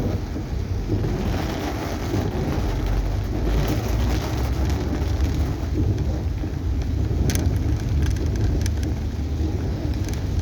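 Heavy rain on a moving car, heard from inside the cabin over a steady low road and engine rumble, with a few sharp ticks about seven to nine seconds in.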